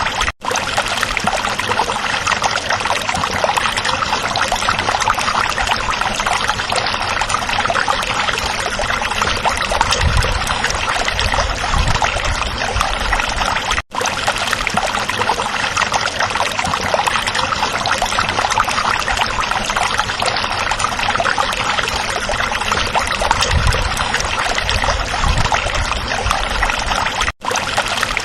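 Stream water running and trickling over stones in a steady, even rush. The sound drops out for an instant three times, about every thirteen and a half seconds.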